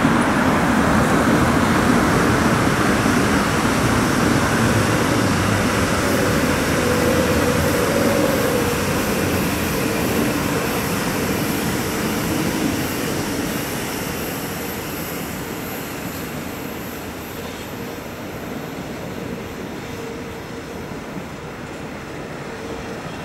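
Flixtrain locomotive-hauled passenger coaches rolling along an elevated railway viaduct, a steady rushing rumble of wheels on rail that fades from about halfway through as the train moves away.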